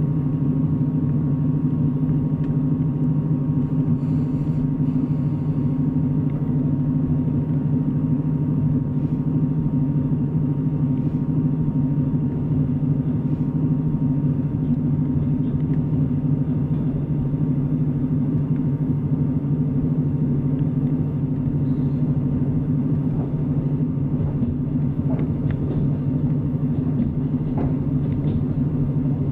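Steady running rumble of a passenger train at speed, heard from inside the carriage: wheels on the rails and a low, even drone, with a few faint clicks near the end.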